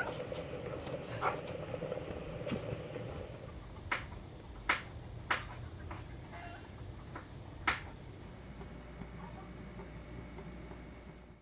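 Insects trilling steadily at a high pitch, with a faster pulsing chirp beneath, and a handful of short sharp clicks scattered through.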